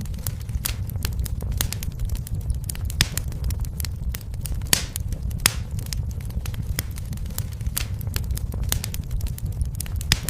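Fire in a fireplace crackling, with frequent irregular sharp pops over a low, steady rumble.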